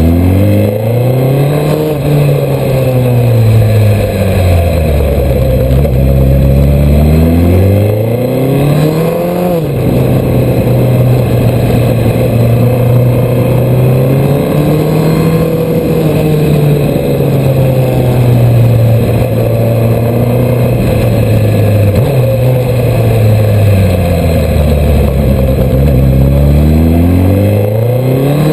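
Suzuki Hayabusa's inline-four engine under way, its revs rising and falling repeatedly as the bike accelerates and slows, with a sudden drop in pitch about ten seconds in and again at the very end as the throttle is shut or a gear is changed.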